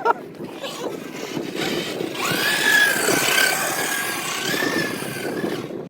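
Engine noise with a high, slightly wavering whine held for a few seconds in the middle.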